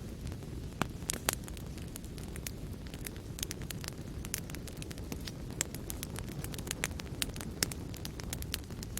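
Wood fire crackling: a steady low rumble of burning with frequent small sharp pops and snaps at irregular intervals, a couple of louder pops about a second in.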